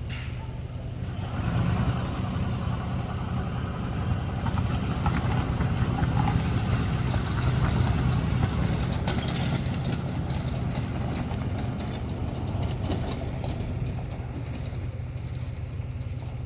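An engine idling with a steady low hum, a little louder in the middle.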